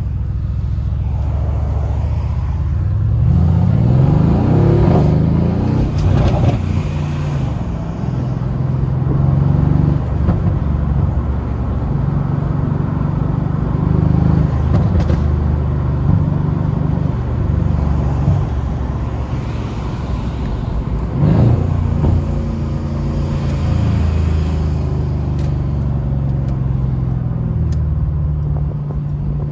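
Mercedes-AMG C63's twin-turbo V8 engine running under way. Its pitch climbs under acceleration a few seconds in and again around twenty seconds, and it holds fairly steady in between.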